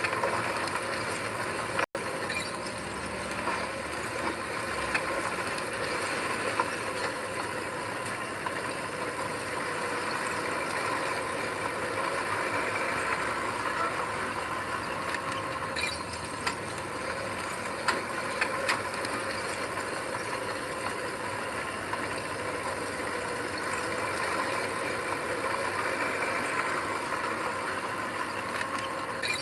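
Heavy earthmoving machinery, a diesel engine running steadily with metallic clanking and rattling, typical of a bulldozer's tracks. There is a brief gap about two seconds in.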